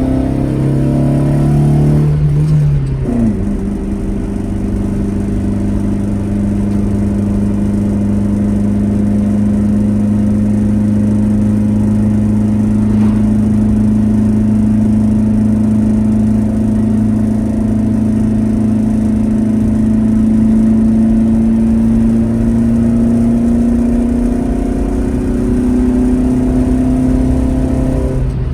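A classic Alfa Romeo GT Junior's twin-cam four-cylinder engine pulling on the road. About two to three seconds in, the engine note drops sharply with an upshift. It then runs steadily, its pitch slowly climbing as the car gathers speed.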